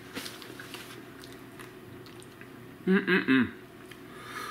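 A person chewing a mouthful of bacon, egg and cheese breakfast sandwich, with small mouth clicks. About three seconds in comes a short vocal sound with rising and falling pitch, the loudest part.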